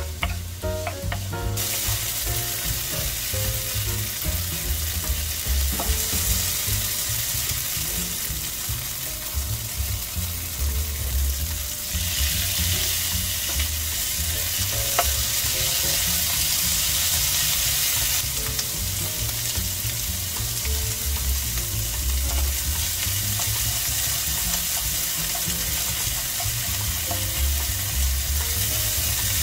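Mashed tofu, onion and tomato sizzling in a nonstick wok, with a wooden spatula stirring and scraping them around the pan. The sizzle grows louder about a second and a half in and then carries on steadily under irregular soft knocks from the stirring.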